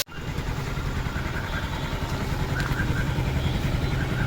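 Bajaj CT 100 motorcycle's single-cylinder four-stroke engine running steadily.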